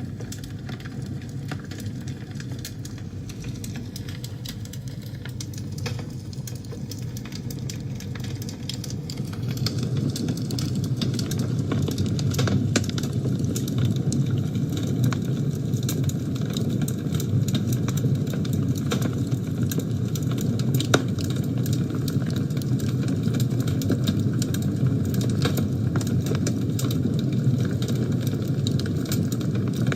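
Wood fire burning in a fireplace: a steady low rumble of flames with frequent sharp crackles and pops. It grows louder about ten seconds in.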